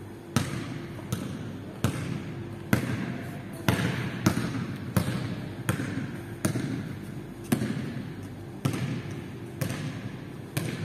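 Basketball being dribbled on a hard indoor court floor: about a dozen sharp, echoing bounces, roughly one a second and somewhat irregular, in a large gym hall.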